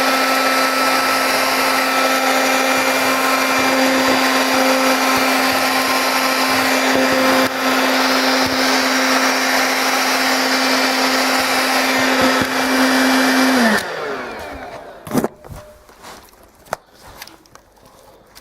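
Vax Gator 10.8-volt cordless handheld vacuum cleaner running steadily as it sucks up dried rice and dirt from the floor; its small motor and centrifugal fan give a constant whine over a hiss. About fourteen seconds in it is switched off and the motor winds down with a falling pitch, followed by a few light knocks and clicks.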